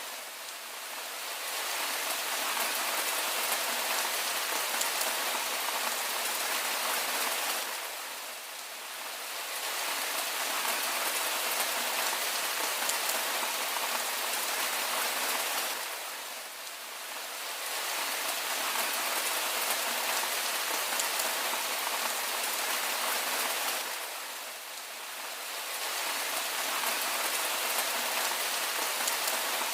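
Steady rain falling, an even hiss that eases briefly about every eight seconds.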